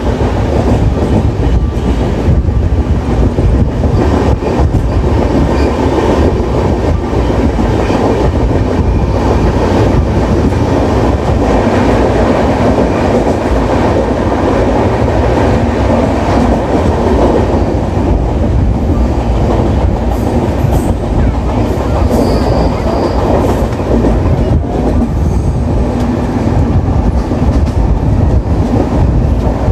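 Express train running along the line, heard from on board: a loud, steady rumble of wheels on the rails, with a brief faint high squeal about two-thirds of the way in.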